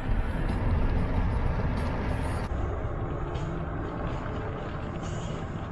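Steady road and engine noise inside a moving car's cabin, gradually getting quieter.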